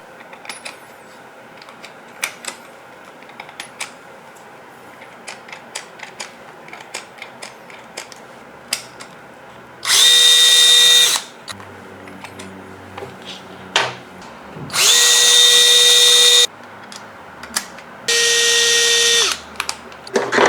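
8V cordless brushless drill running in three short bursts of one to two seconds each, a steady high whine that starts and stops abruptly, after several seconds of light clicks and knocks from handling the tool.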